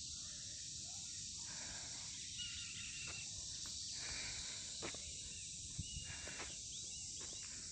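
Steady chorus of crickets, a dense high-pitched trill, with a few faint short bird chirps now and then.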